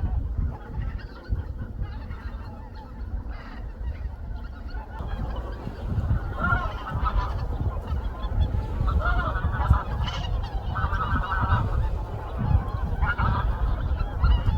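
A flock of geese honking, which the narrator takes for greater white-fronted geese; the calls come thicker and louder from about halfway in, over a steady low rumble.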